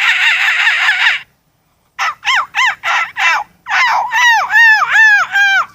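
A person's voice imitating a pheasant's flushing call. A rapid rattling call breaks off about a second in, and after a short pause comes a run of about a dozen short notes, each arching up and down in pitch.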